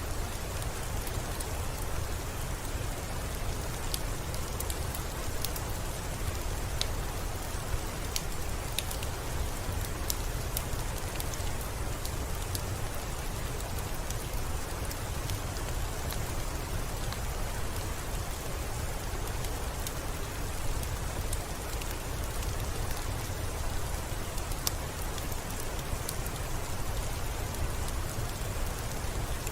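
Steady, even rain with a deep low rumble underneath and scattered sharp little ticks of drops.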